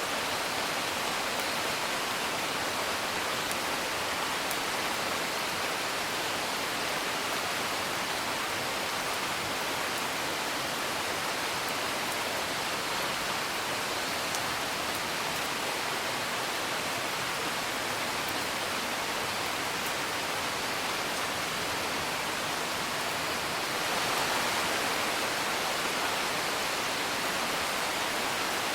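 Steady rain, an even hiss, with a few faint crackles from a wood fire. The rain swells slightly near the end.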